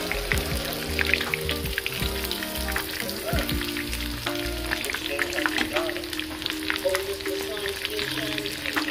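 Breadcrumb-coated cutlets shallow-frying in hot oil in a pan, sizzling steadily with frequent small crackles and pops.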